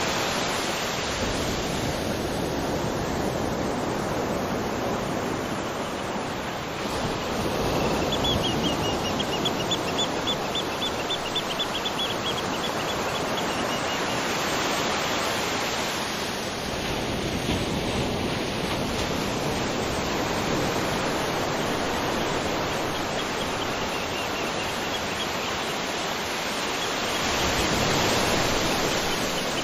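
Waterfall: a steady rush of falling water that swells and eases a little. A faint, high, evenly pulsed trill rises above it for a few seconds about a third of the way in, and briefly again near the end.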